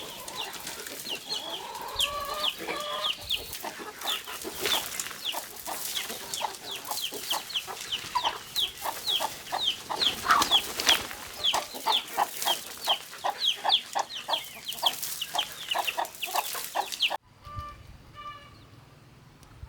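Chickens clucking and peeping: a quick, dense run of short, high, falling calls, several a second, with some lower calls in the first few seconds. It cuts off suddenly near the end.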